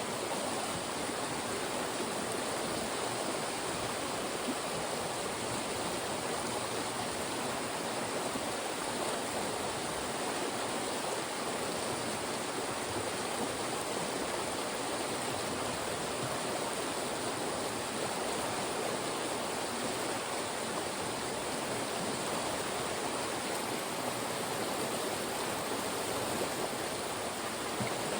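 Fast-flowing mountain stream rushing through channels of rocks: a steady, even rush of water.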